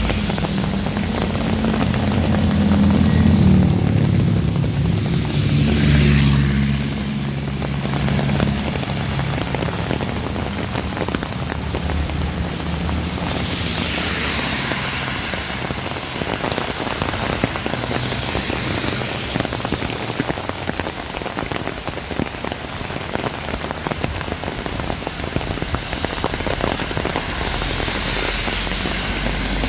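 Heavy rain falling steadily. A low rumble at the start fades away over the first several seconds.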